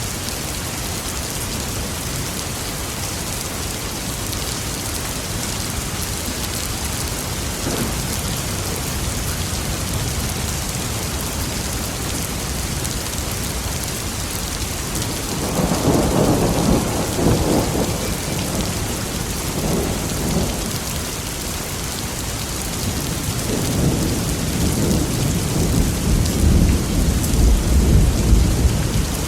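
Steady rain falling, with thunder: a rumble rolls in about halfway through, a shorter one follows, and a longer, deeper roll of thunder builds toward the end.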